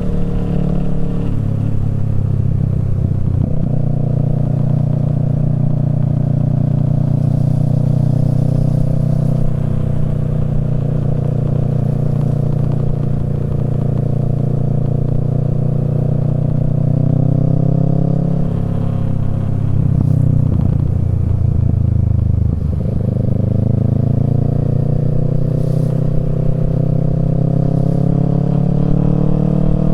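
Kawasaki Z650's parallel-twin engine through a Yoshimura Alpha exhaust, running under way. Its note holds steady, then falls and climbs back twice in the second half.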